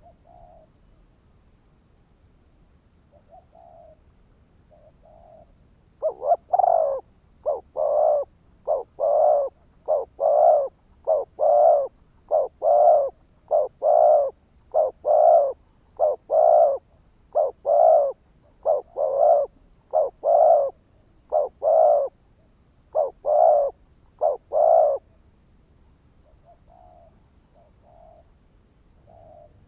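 Spotted dove cooing. A few soft coos come first. About six seconds in, a fast run of loud, short coos begins, many of them paired, and carries on for nearly twenty seconds before softer coos return near the end.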